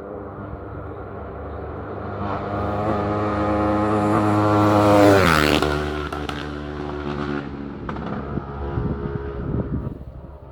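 Isle of Man TT race motorcycle approaching at high speed at full throttle and passing close by about five seconds in, its engine note dropping sharply in pitch as it goes past, then fading away.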